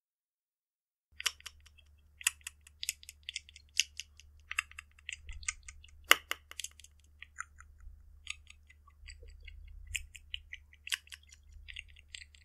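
Chewing sound effect of french fries being eaten: irregular crisp crunches in quick clusters, starting about a second in, over a faint low hum.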